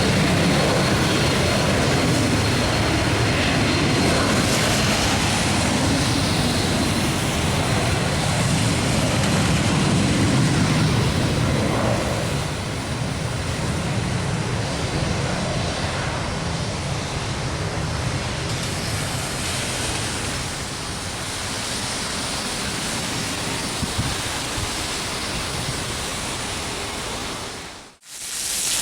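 Jet airliner's engines running, a dense rushing noise with a faint high whine, louder for the first twelve seconds or so then easing off. The sound drops out briefly near the end.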